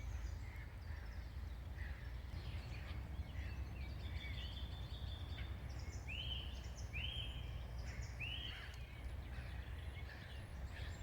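Wild songbirds chirping and calling, with three arching notes a little under a second apart in the middle, over a low steady rumble.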